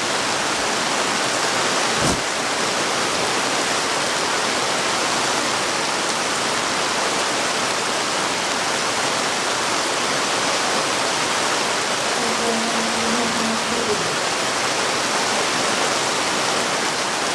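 Heavy rain pouring down in a steady, dense hiss, with a single sharp knock about two seconds in.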